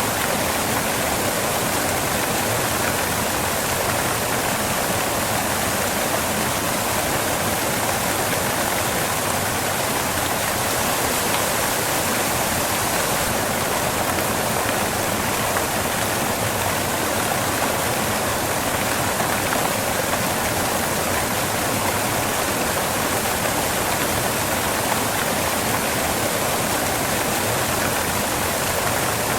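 Waterfall crashing onto rocks: a steady, even rush of falling water that does not change.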